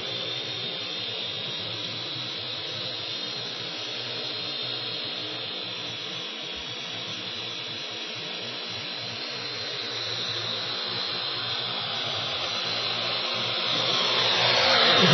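Parrot AR.Drone 2.0 quadcopter's motors and propellers whirring steadily with a high whine, growing louder over the last few seconds.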